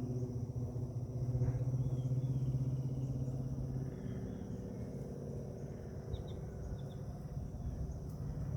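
Outdoor ambience: a steady low mechanical hum, easing a little about four seconds in. Under it run a steady high insect drone and a few short bird chirps about six seconds in.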